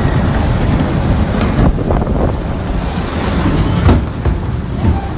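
Storm wind blowing hard and buffeting the microphone: a loud, steady rushing noise with a heavy low rumble.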